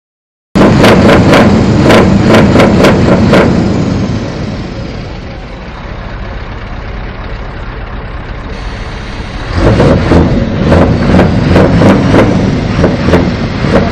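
Scania R560 truck's V8 diesel engine being revved in quick, sharp blips, dropping to a quieter steady running for several seconds, then blipped repeatedly again from about ten seconds in.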